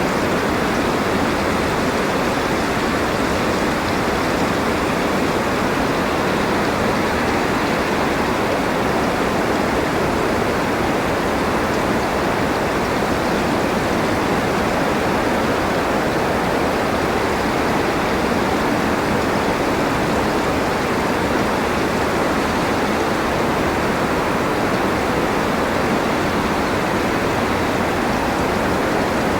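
Steady wind noise for sleep: an even rushing hiss that holds the same level throughout, with no gusts or lulls.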